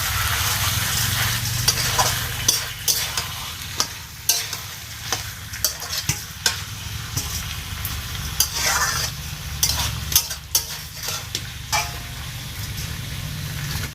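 Food frying in hot oil in a cooking pot, a steady sizzle, while a spoon stirs it and repeatedly knocks and scrapes against the pot.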